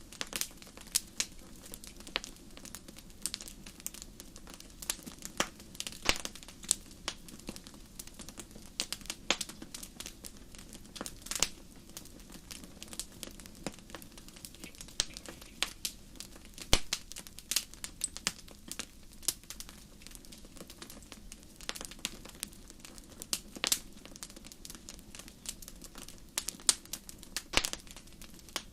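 Wood fire burning in a fireplace: a steady low hiss with irregular sharp crackles and pops, several every second.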